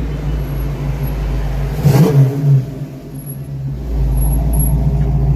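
A car engine running, with a short rev about two seconds in, then settling back to a steady, louder rumble.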